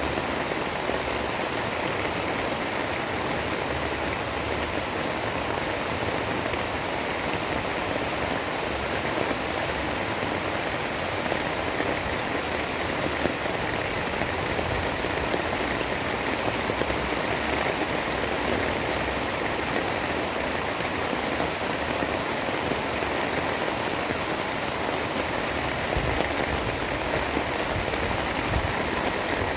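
Steady storm ambience of heavy rain, an even hiss with no breaks, under occasional low rumbles that are a little stronger near the end.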